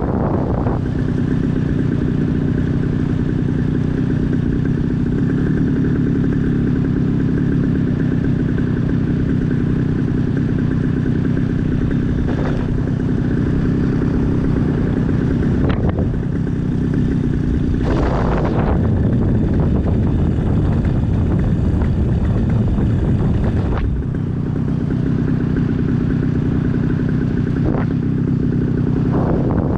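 Small aircraft engine running steadily at low power, throttled back rather than shut off for a simulated engine-out glide, with wind rushing past. About eighteen seconds in there is a brief louder rush of air noise.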